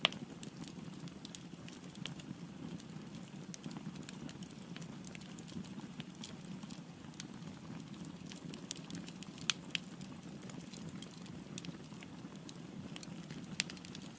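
Firewood burning in a fireplace: a steady low rush of flame with frequent sharp crackles and snaps. A few louder pops come right at the start, about nine and a half seconds in, and near the end.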